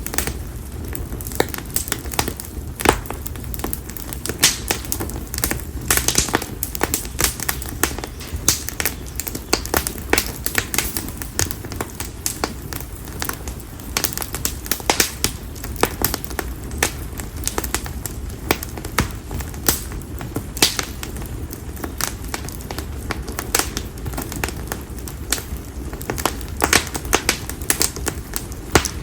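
Split konara oak firewood burning in an open fire, crackling with many sharp, irregular pops over a low, steady rumble of flame.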